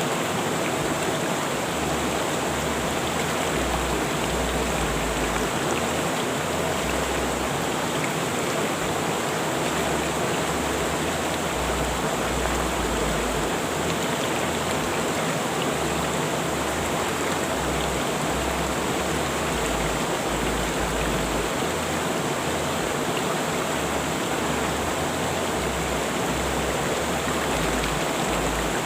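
Rushing river water flowing steadily, an even, unbroken rush.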